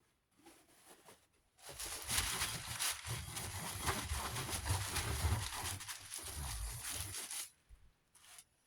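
Rough scrubbing noise, about six seconds long, from cleaning the desk fan's metal guard. It starts a couple of seconds in and stops suddenly, with a few faint clicks before and after.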